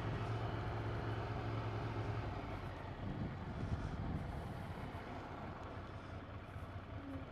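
Ducati 797's air-cooled L-twin engine running at low road speed, a steady low hum that softens after about two seconds into a rougher rumble, the overall sound slowly getting quieter.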